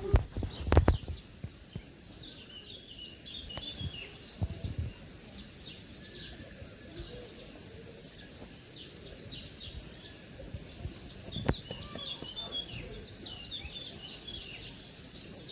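Many small birds chirping in quick, high, overlapping calls that go on throughout, with a few loud knocks in the first second.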